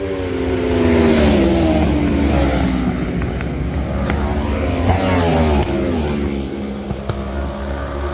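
Two superbike racing motorcycles pass at speed, one about a second in and the other around five seconds in. Each engine's pitch falls as it goes by.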